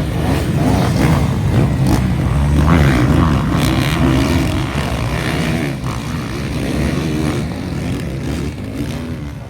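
Several motocross bikes revving hard together, their engine notes rising and falling over one another. The sound is loudest about three seconds in and eases off slightly after that.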